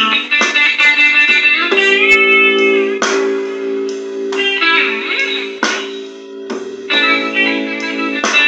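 Electric guitar playing a blues in three through a Digitech effects unit: picked phrases and bent notes, with one long sustained note held for several seconds in the middle.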